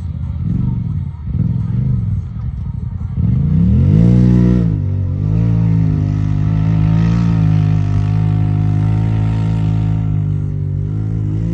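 Jeep Wrangler engine revving in short rises and falls while working down a steep rocky slope, then climbing in pitch about three seconds in and holding a steady higher speed.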